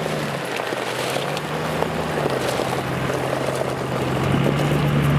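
A vehicle engine running with road and wind noise: a steady low drone that dips slightly in pitch about two seconds in and creeps back up near the end.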